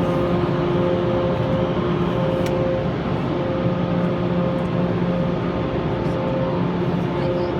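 PDQ LaserWash G5 touchless car wash machinery running: a steady rushing noise with a few held hum tones that fade in and out.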